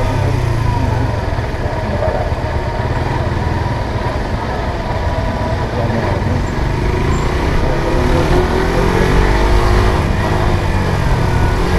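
Suzuki GSX-R150's single-cylinder four-stroke engine running under way, its pitch climbing as it accelerates over the last few seconds.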